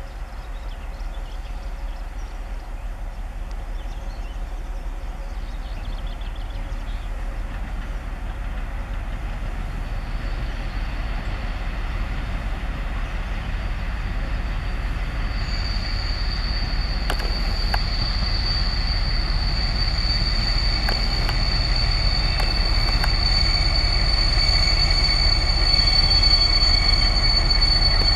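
SU46 diesel locomotive hauling a passenger train as it approaches and slows to a stop, its engine and wheel rumble growing steadily louder. About halfway through, a steady high-pitched wheel and brake squeal sets in and holds to the end as the train brakes at the platform.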